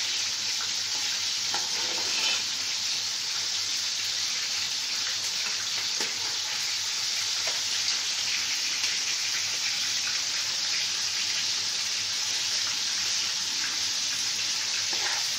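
Meat and liver sizzling steadily as they fry in oil in a stainless steel pot. A metal ladle stirs them, with a few faint scrapes and taps against the pot.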